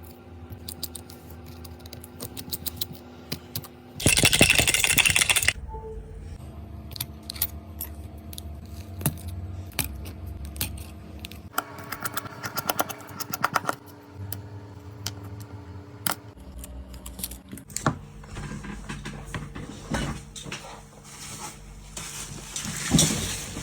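Small clicks and taps of tools and parts being handled on a phone, with a loud burst of hiss lasting about a second and a half about four seconds in and a quieter hissy stretch around twelve seconds.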